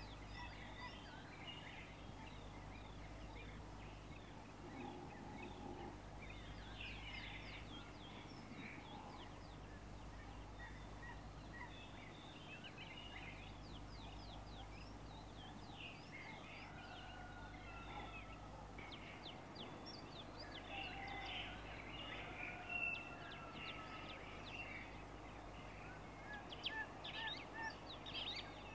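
Many small birds chirping and calling in quick, overlapping notes, with a few longer sliding whistles, over a steady low hum.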